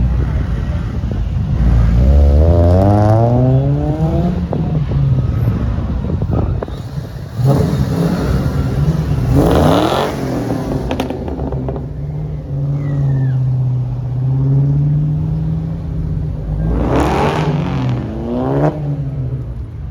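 Car engines accelerating hard, the engine note climbing in pitch about two seconds in, again near the middle and once more near the end, with engines running steadily in between.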